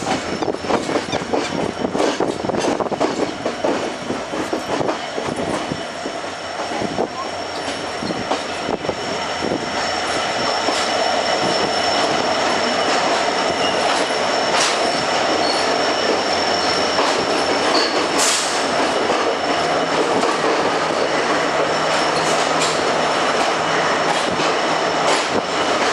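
Passenger train running on the rails: a quick patter of wheel clicks over the rail joints, then about ten seconds in a steadier, louder rush of running noise with a thin, high squeal from the wheels.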